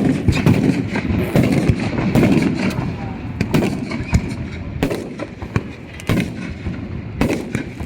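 Fireworks and firecrackers going off: many sharp bangs at irregular intervals, coming thick and fast in the first few seconds, then spaced about half a second to a second apart.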